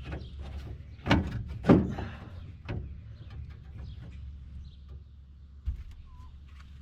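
Sheet-metal panel being worked into place in a car body: two sharp knocks about a second in, a lighter knock and scraping after, and a dull thump near the end.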